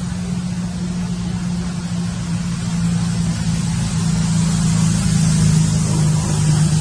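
A motor running steadily, a constant low hum with a hiss over it.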